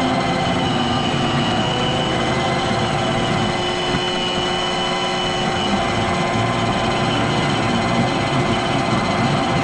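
iRobot Roomba robot vacuum running: a steady motor whir with a constant high whine.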